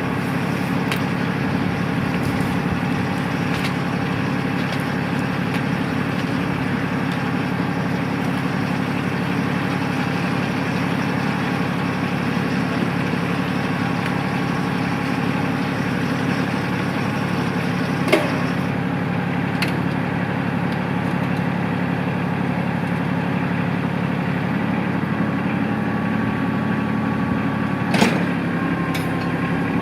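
Tractor engine running steadily at an even speed, with two sharp metallic knocks, one a little past halfway and one near the end.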